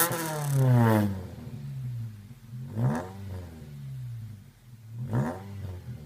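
Mitsubishi Lancer X with a straight-through exhaust: the revs fall back from a throttle blip at the start and settle to idle. Two more short throttle blips follow, about three and five seconds in, each rising and dropping back to idle.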